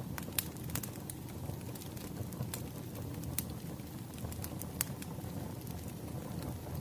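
Wood fire burning: scattered sharp pops and crackles over a steady low rustle of flame.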